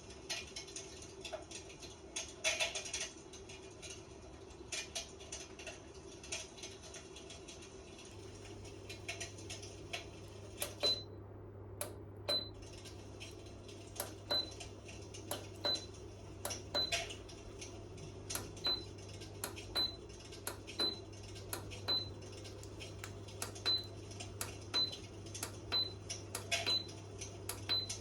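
Fireplace-style electric fan heater being tried out: scattered clicks and knocks of handling, a low steady hum that starts about eight seconds in, and from about eleven seconds a short high electronic beep repeating about once a second.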